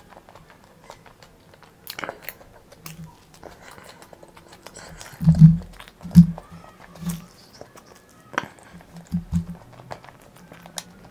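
Close-up chewing and mouth sounds of a person eating soft, spongy white dhokla dipped in sauce: wet lip smacks and mouth clicks, with a few short low sounds, the loudest about five seconds in.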